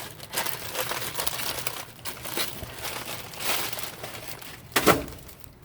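Plastic bags and packaging rustling and crinkling as discarded goods are handled and piled up. There is one louder knock near the end.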